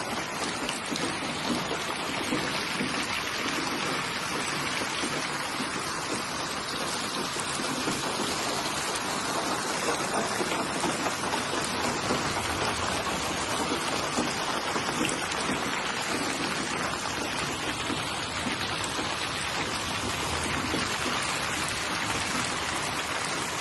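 Steady rain falling, an even patter of drops on a surface with no breaks.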